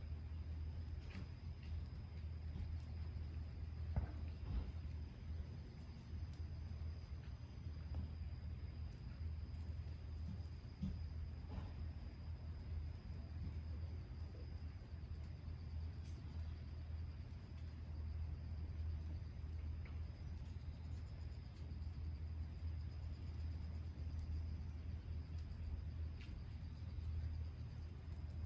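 Crickets chirping in a steady, very high-pitched pulsing rhythm over a constant low hum, with a few faint clicks.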